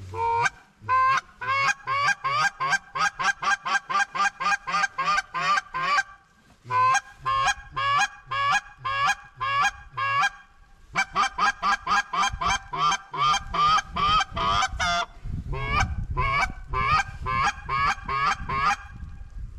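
Goose call blown in fast, even runs of short honks and clucks, about three a second, in four series with brief pauses between them, calling to passing birds to turn them back toward the decoys. A low rumble runs under the last series.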